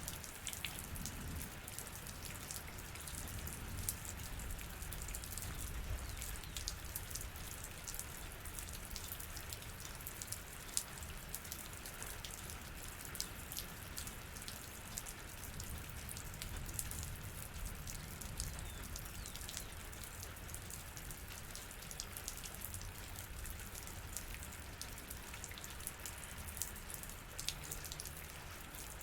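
Steady rain falling, many separate drop hits clicking over a constant hiss, with a low rumble underneath.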